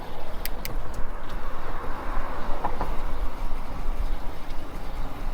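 Steady rumbling noise of an e-bike being ridden along a trail: wind buffeting the bike-mounted microphone and the tyres running on the path, with two quick clicks about half a second in.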